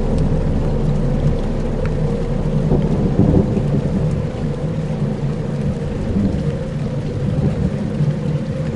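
Dark ambient soundscape: a dense, steady low rumble like distant thunder and rain, with faint held low tones under it.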